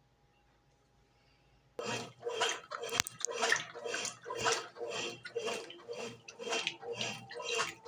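Brastemp BWG11 11 kg washing machine, after near silence, suddenly starting to churn: water and laundry sloshing in the tub in a steady rhythm of about two strokes a second.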